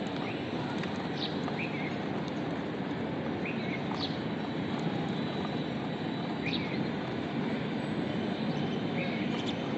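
Budgerigars giving short chirps every second or two over a steady rushing noise.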